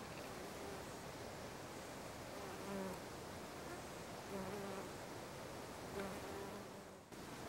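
Bee buzzing in flight around fireweed flowers: a few short, faint buzzes, each lasting under a second, over a quiet background hiss.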